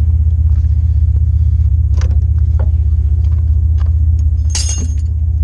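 A vehicle engine idling with a steady low drone, under a few light clicks of hand tools being picked up and a brief metallic jingle of tools or keys about four and a half seconds in.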